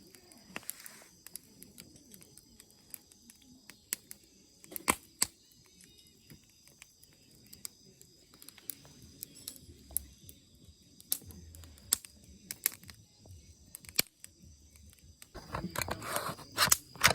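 Wood campfire crackling, with sharp pops every second or few, and a louder stretch of noise near the end.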